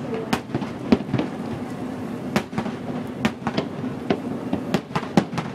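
Aerial fireworks bursting: about a dozen sharp bangs and cracks at irregular intervals, over a steady background hiss.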